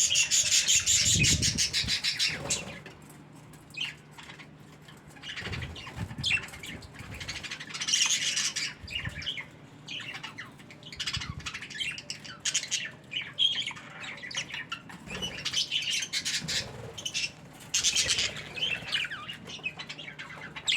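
Budgerigars chattering and squawking, with loud bouts of fast chirping at the start, about eight seconds in, and again near the end, and softer chatter in between.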